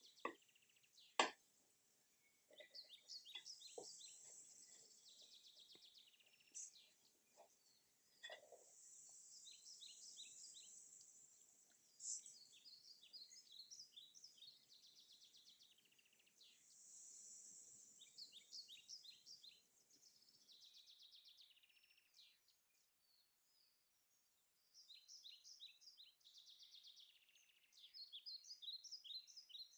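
Faint birds chirping, with quick repeated high chirps and short trills. A couple of sharp clicks come near the start, the loudest about a second in.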